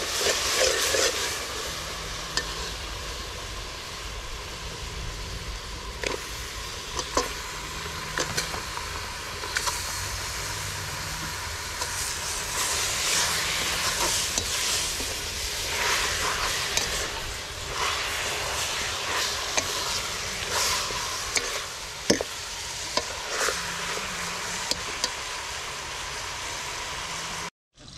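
Chicken pieces frying in a large aluminium pot, sizzling steadily while a long metal ladle stirs them, with sharp clinks and scrapes of the ladle against the pot now and then.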